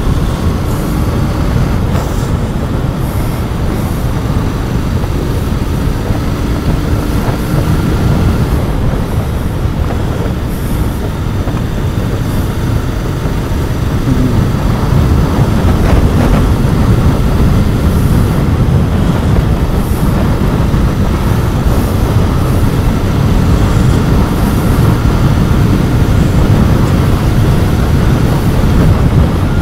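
Royal Enfield Continental GT 650's 650 cc parallel-twin engine through its stock exhaust, pulling under acceleration while being ridden, with a heavy low rumble mixed with wind over the microphone; it gets louder about halfway through.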